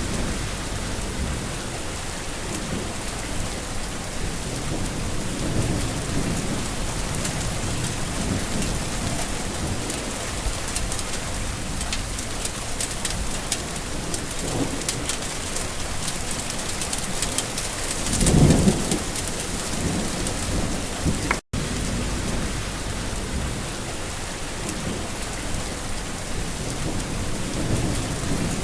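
Steady heavy rain falling, with low thunder rumbling now and then and one louder, longer roll of thunder about two-thirds of the way through. The sound drops out for an instant a few seconds after that roll.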